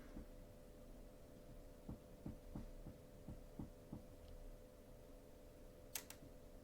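Near silence over a steady low electrical hum. About seven soft, low taps come about a third of a second apart around the middle, and a sharp double click comes near the end.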